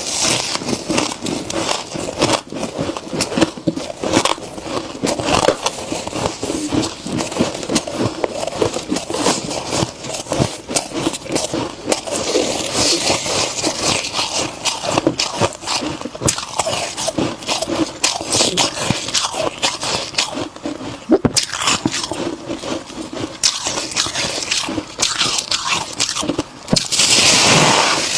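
Freezer frost crunching crisply: a dense, irregular run of small crackles and snaps, turning denser and louder near the end.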